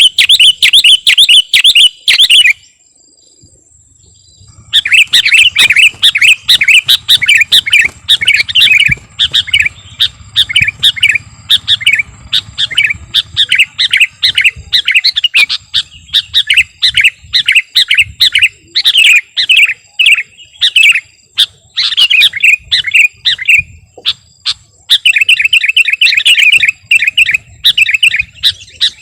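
Sooty-headed bulbul (kutilang) singing loudly in quick, repeated chattering phrases, pausing for about two seconds near the start and then singing almost without a break.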